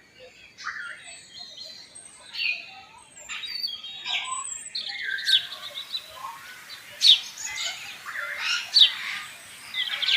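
Many aviary birds chirping and calling at once: short high chirps and falling calls overlap, with quick trills joining partway through. Two sharp, loud calls stand out in the later part.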